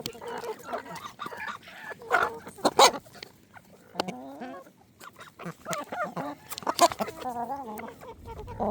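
Chickens clucking and calling, wavering calls broken up by sharp clicks and knocks.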